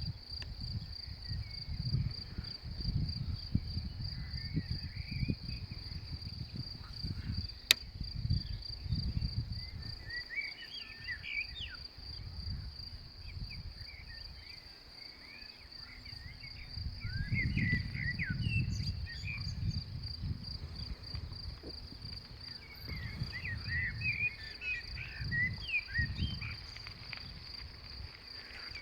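Meadow insects chirring, a steady high, fast-pulsed trill that runs without a break. Birds chirp in short bunches now and then, wind rumbles on the microphone in gusts, and a single sharp click comes about 8 seconds in.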